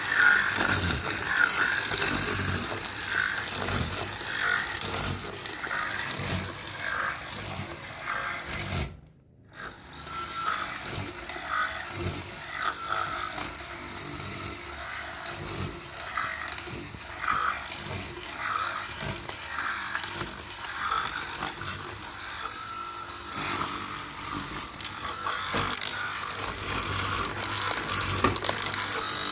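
Door lock and handle hole cutting machine working on wood: an uneven mechanical clatter of clicks and scrapes. It breaks off briefly about nine seconds in.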